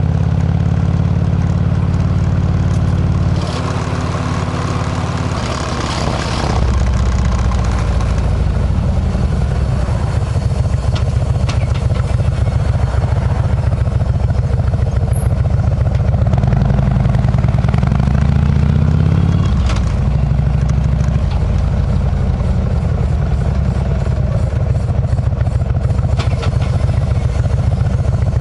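Harley-Davidson V-twin engine running through a Kesstech exhaust with a deep, steady note. Its pitch rises gradually about two-thirds of the way through, then drops back.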